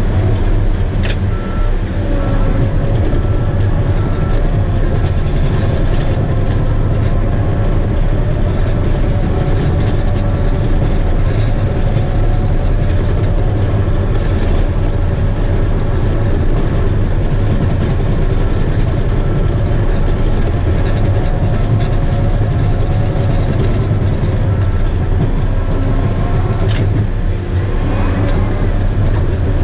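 Bulldozer's diesel engine running steadily under load while pushing topsoil, with the clanking of its steel tracks. A wavering whine runs throughout, with a sharp click about a second in and another near the end.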